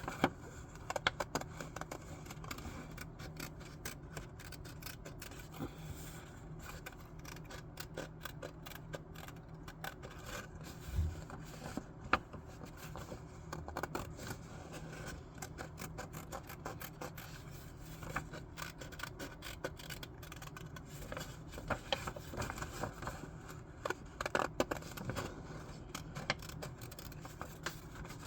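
Scissors cutting paper: many short snips scattered throughout, with the paper handled and scraped between cuts.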